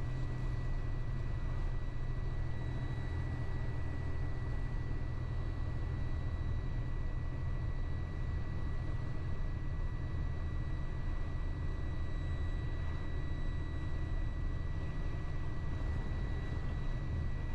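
Steady low drone of a semi truck's diesel engine heard inside the cab while the truck pulls slowly up a hill, with a faint steady high-pitched whine over it.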